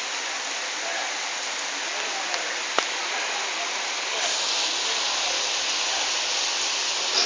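Steady rain falling, an even hiss of drops, with one sharp click about three seconds in; the rain grows a little heavier about four seconds in.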